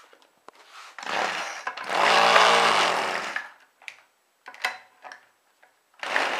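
McCulloch two-stroke string trimmer being pull-started cold on nitro RC-airplane fuel. A burst of starter and engine sound comes about a second in, then a louder one with a wavering pitch that lasts about a second and a half. Another burst starts near the end.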